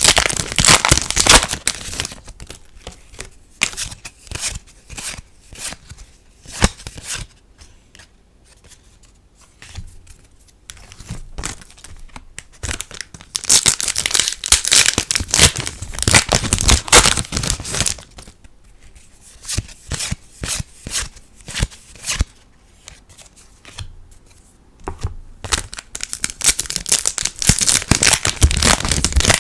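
Trading-card booster packs being torn open and crinkled in three spells: at the start, midway and near the end. Between them come quieter sharp clicks and flicks of cards being handled.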